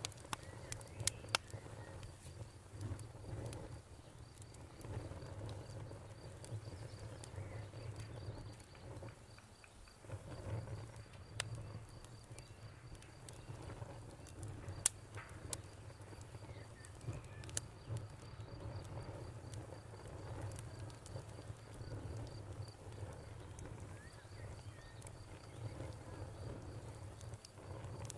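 Campfire crackling, with scattered sharp pops over a low rumble. A cricket chirps in a fast, even pulse in the background.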